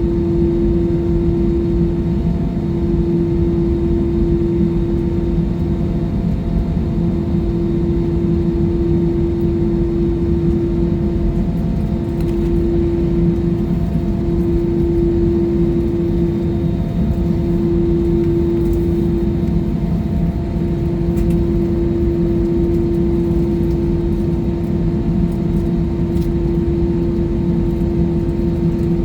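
Jet airliner cabin noise from the engines and airflow: a steady low rumble with a constant droning hum.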